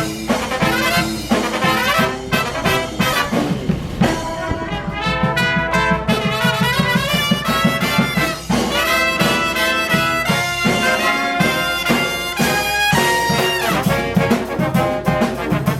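Live brass band playing an upbeat number, with trumpets and trombones over a steady bass pulse.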